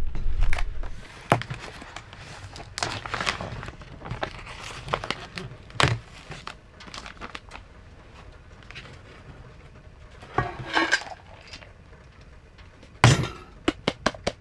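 Scattered clinks and knocks with short rustles, as of small objects or gear being handled, with a cluster of sharp knocks near the end.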